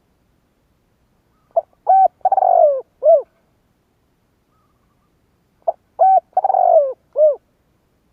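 Spotted dove cooing: two song phrases about four seconds apart, each a couple of short hoots, a longer falling coo and a short closing note.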